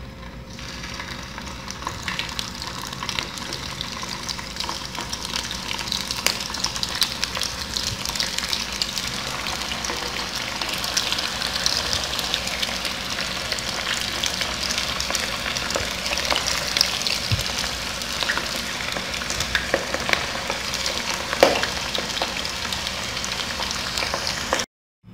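Kibbeh frying in hot oil in a saucepan: a steady sizzle full of crackles and small pops. It starts about half a second in as they go into the oil, builds over the first few seconds, and cuts off abruptly just before the end.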